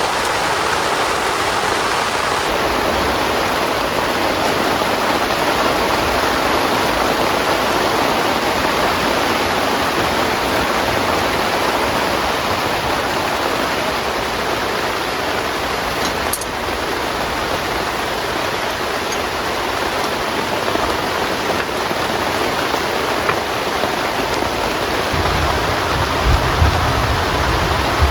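Heavy rain falling steadily, a dense even hiss. A low rumble comes in near the end.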